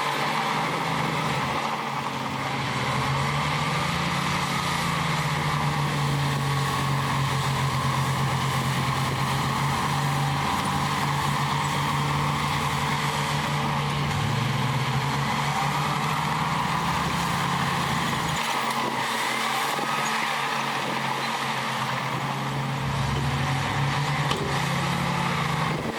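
Heavy diesel engine of earthmoving machinery running steadily under work, its pitch dipping briefly about halfway through and again near the end.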